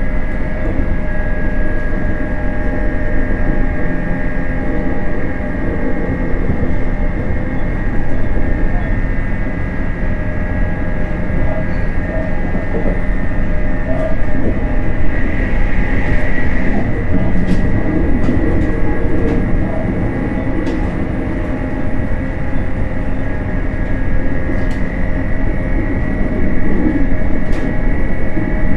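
A JR East 719 series 5000-subseries electric train running along the line: a steady rumble of wheels on rail with a constant drive hum made of several held tones. A few faint clicks come in the second half.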